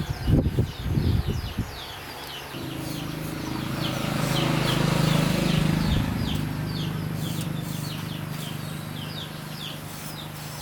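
A few sharp knocks in the first two seconds, then a low droning hum, like a motor, that swells and slowly fades away. Small birds chirp repeatedly throughout.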